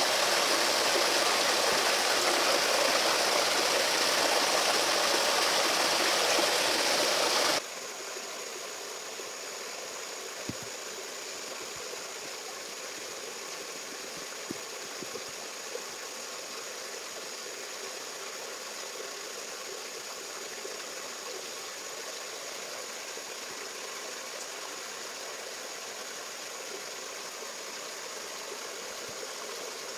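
Steady rushing water, like a stream, that cuts off suddenly about seven or eight seconds in. It gives way to a quieter steady hiss with a few faint clicks.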